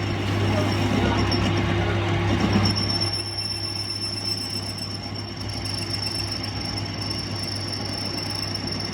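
Workshop machine running steadily, with a constant low hum and a high steady whine; a rougher grinding-like noise over the first three seconds eases off after that.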